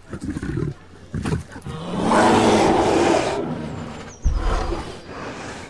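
Bear growling: a series of rough, deep growls that build to the loudest about two seconds in and then trail off, with another short, deep growl starting sharply about four seconds in.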